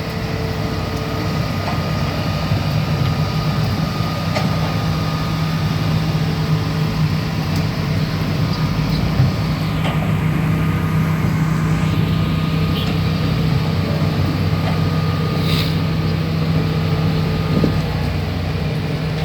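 Heavy vehicle engine running steadily with a low, even hum.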